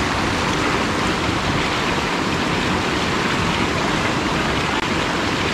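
Mountain stream running over rocks, a steady rush of water.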